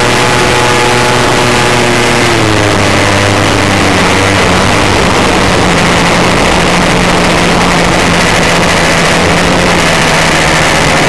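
Radio-controlled model airplane's engine heard from an onboard camera, under loud wind rushing over the microphone. The engine note drops in pitch about two seconds in and settles lower.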